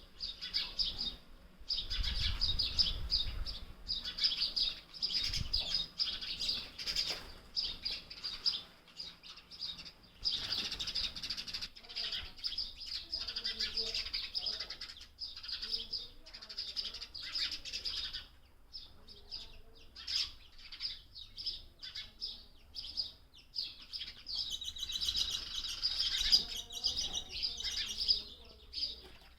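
Young sparrow chirping over and over in quick runs of short, high chirps, busiest near the end.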